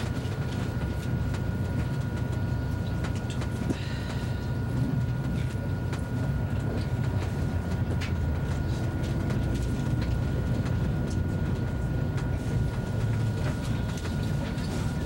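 Steady low rumble of a first-generation ICE high-speed train running along the track, heard from inside the carriage. Through it run a faint steady high whine and occasional faint clicks.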